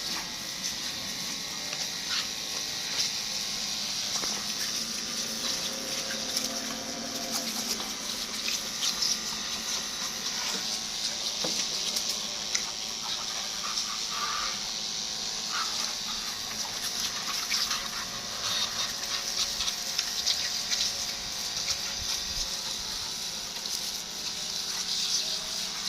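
Water spraying steadily onto a Honda PCX 125 scooter's bodywork while it is being washed: a continuous hiss with irregular spatters.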